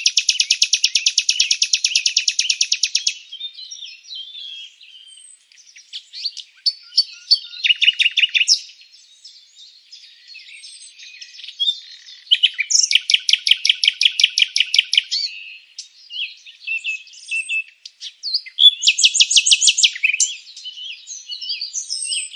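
Songbirds chirping, with three loud trills of rapid, evenly repeated notes, each lasting a few seconds: one at the start, one about 13 seconds in and one about 19 seconds in. Quieter, varied chirps and short calls fill the gaps between the trills.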